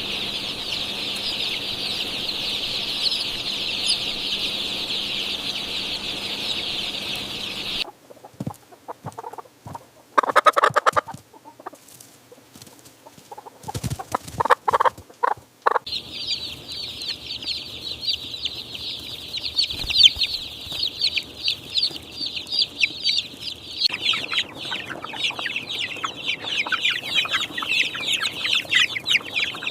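A flock of young chicks peeping, a dense high-pitched chorus over a low steady hum. About eight seconds in the chorus drops away, leaving a few louder separate calls, and it comes back in full after about sixteen seconds.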